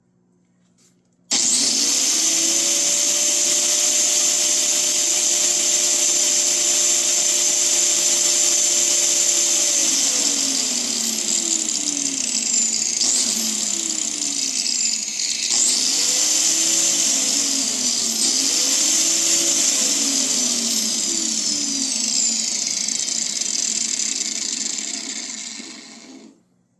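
A power tool's motor, such as a drill, starting suddenly. Its whine rises, holds steady for about eight seconds and winds down, then revs up and down in two short spurts, over a steady high hiss, before stopping near the end.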